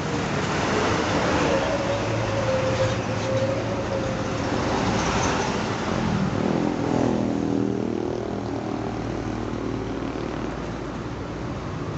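Highway traffic with a truck passing: a steady held tone during the first few seconds, then the engine note falls in pitch as the truck goes by, about six seconds in, over continuous road noise.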